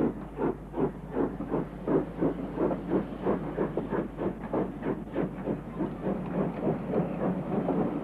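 Steam locomotive exhaust chuffing in regular beats with a hiss of steam; the beats quicken as the engine gets away.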